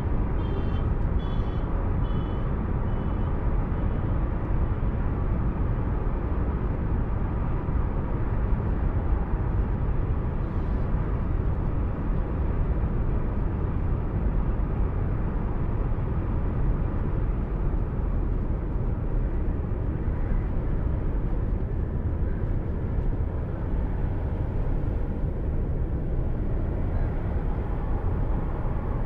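Steady road and engine noise of a moving car, picked up by a dashcam mic inside the cabin. A quick series of about six short high beeps sounds in the first few seconds.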